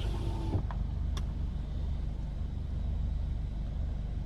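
Car engine running with a steady low rumble, heard from inside the car.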